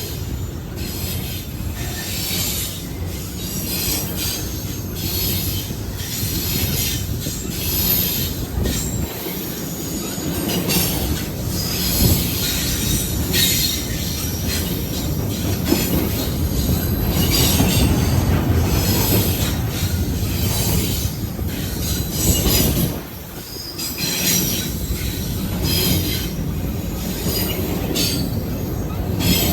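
Railroad cars rolling past with a steady rumble of steel wheels on rail. High wheel squeal comes and goes throughout, and the sound dips briefly a little over 20 seconds in.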